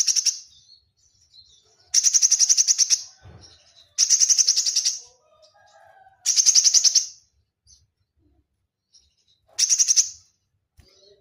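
Konin (yellow-bellied prinia) song: tight bursts of fast, high, rattling chip notes, about ten a second, each burst lasting about a second and repeated every two to three seconds, with a few faint lower calls in the gaps.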